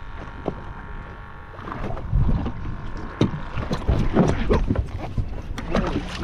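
Small fishing boat on rough water: waves slapping the hull, with irregular knocks and wind on the microphone. A faint steady whine lasts the first second and a half.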